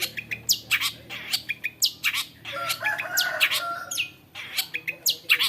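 Long-tailed shrike singing: a rapid string of sharp, downward-sweeping high notes, broken about halfway through by a lower warbling passage.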